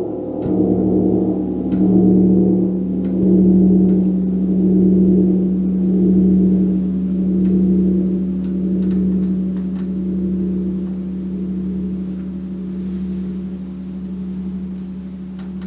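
Gong ringing with a deep sustained hum and overtones, swelling and ebbing in slow pulses about every second and a half while gradually dying down.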